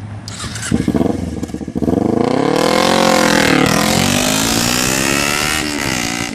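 Motorcycle engine accelerating: its pitch climbs over the first few seconds, drops, climbs again and falls away near the end, like a rider working up through the gears.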